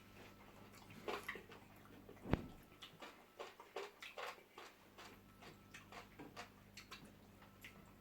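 Quiet eating sounds: soft chewing and mouth smacks with small clicks, and one sharper knock about two seconds in, like a dish or utensil set down.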